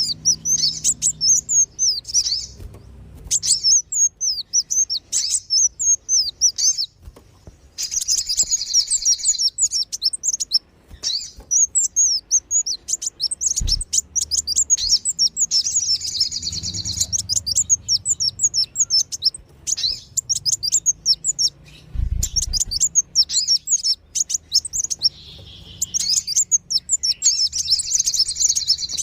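Recorded sunbird calls of the kolibri wulung and sogon, played as a bird lure: rapid, high-pitched twittering chirps in dense bursts with brief pauses. There are a couple of short low thumps in the background.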